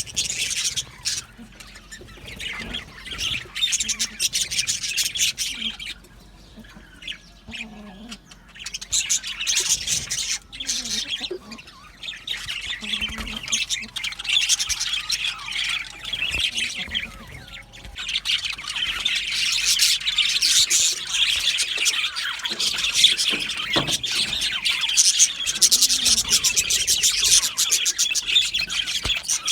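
A flock of budgerigars chattering, chirping and squawking together, with the chatter growing denser and more continuous during the second half.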